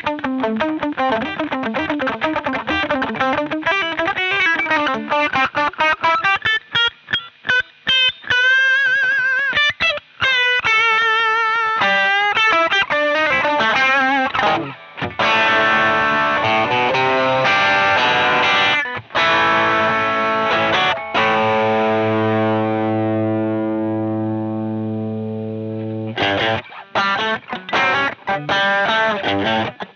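Distorted electric guitar played through the Jeds Peds Onosecond high-gain overdrive pedal: fast picked riffing, then chords, one of them left to ring out and fade before the riffing starts again.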